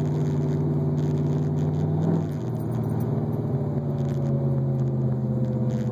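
Turbocharged IROC Camaro's stroked 6.0-litre truck V8 with an 88 mm turbo running at low cruising speed in traffic, heard from inside the cabin: a steady low engine note that eases off slightly about two seconds in.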